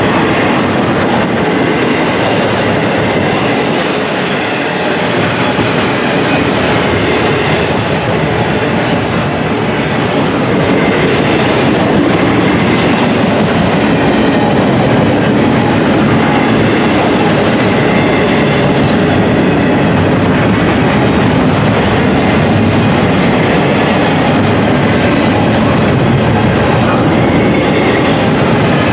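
Double-stack intermodal container cars of a freight train rolling past at close range: a loud, steady noise of steel wheels on the rails, with a fast clatter over the rail joints.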